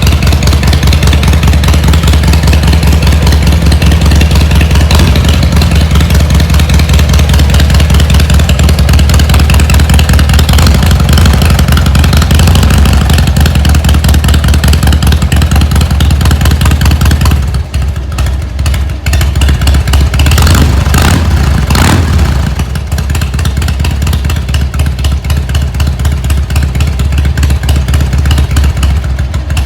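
Harley-Davidson Heritage Softail's air-cooled Evolution V-twin engine idling with an even, loping beat; about two-thirds of the way through it dips briefly, then rises in a couple of short revs before settling back to idle.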